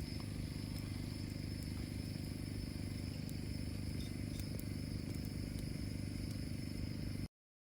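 Steady low hum with a constant high-pitched insect drone over it; all sound cuts off abruptly about seven seconds in.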